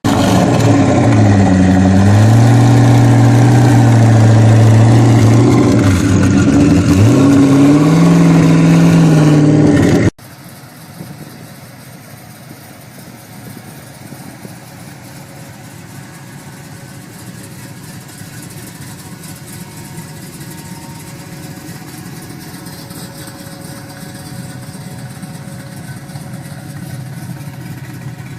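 Muscle car engine revving loudly, its pitch dipping and climbing again twice. About ten seconds in it cuts off abruptly to a much quieter car engine running steadily, growing slowly louder.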